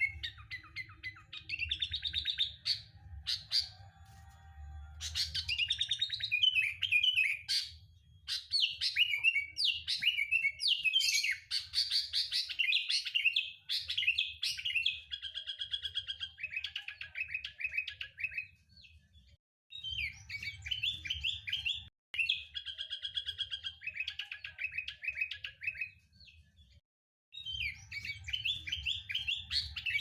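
Sooty-headed bulbul (kutilang) singing in fast runs of chirps and trills, broken by short pauses about two-thirds of the way through and near the end.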